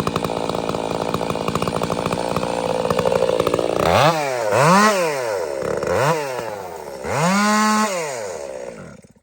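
Two-stroke gas chainsaw running at full throttle, then revved up and let back down three times before it is shut off near the end.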